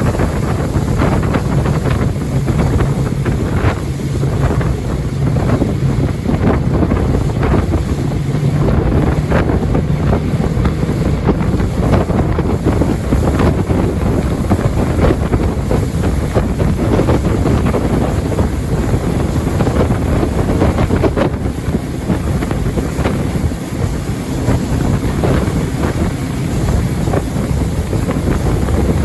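Jet boat running at speed on the river: a steady low engine drone under heavy wind buffeting on the microphone and rushing water.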